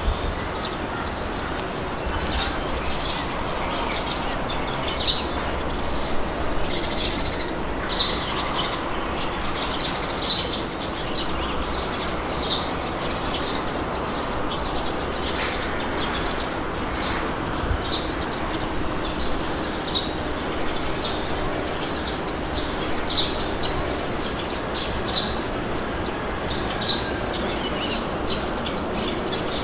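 Steady wind blowing with a low rumble, and small birds chirping in short calls scattered throughout.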